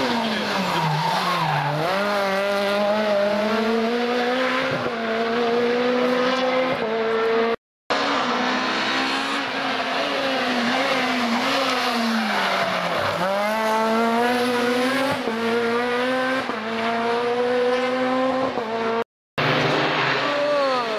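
Rally car engines revving hard on a special stage, the pitch dropping as they slow and then climbing steadily as they accelerate. Tyres squeal through the corners. The sound cuts off abruptly twice, for a moment each time.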